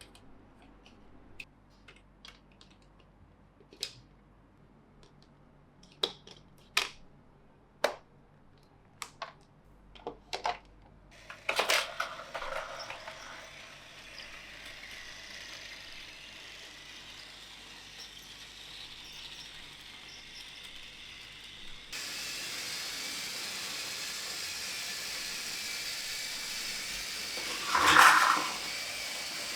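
Sharp plastic clicks and knocks, about a dozen spread over the first ten seconds or so, as Plarail toy train track pieces are handled and fitted together. Then a steady hiss that suddenly gets louder about two-thirds of the way through, with one louder swell near the end.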